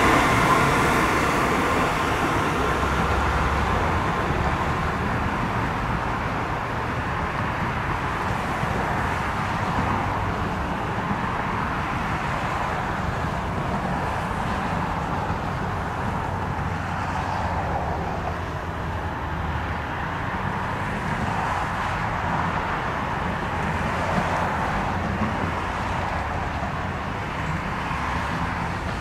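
Electric passenger train rolling past and fading away over the first few seconds, then a steady low rumble as an Amtrak ACS-64-led train approaches from a distance.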